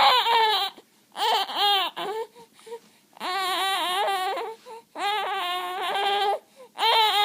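A baby's drawn-out, pitched vocal calls, about five in a row with short breaks between them. This is the playful 'singing' she makes for fun, not distress crying.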